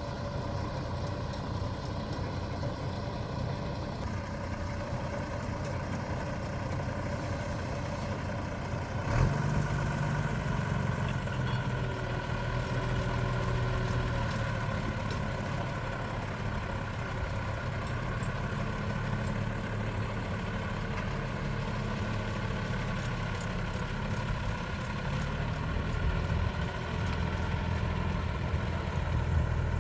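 Heavy diesel engine idling steadily, as the ride's centre section is being lined up. About nine seconds in there is a single knock, and the engine's low note then grows louder and stays up, as if taking on load.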